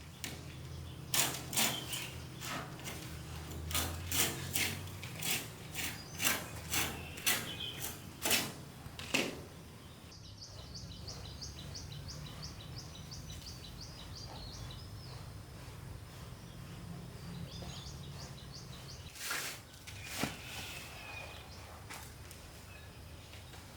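About a dozen sharp, irregularly spaced knocks, then a bird chirping in a fast repeated run of high notes, followed by two more knocks, over a low steady background hum.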